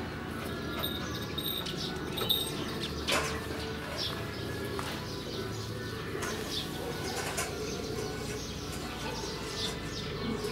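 Birds chirping with short, repeated falling notes, with dove-like cooing, over a steady low hum.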